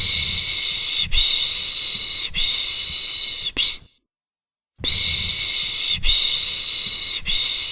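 A person shushing to soothe a baby: a rhythmic run of long 'shh' sounds about a second each, three long and one short. After a pause of about a second the same run starts again.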